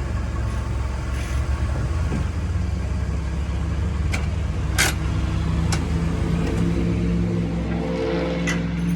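A motor vehicle engine running steadily at idle, its note shifting up to a new steady pitch about seven seconds in. A few sharp clicks or knocks come through around the middle and near the end.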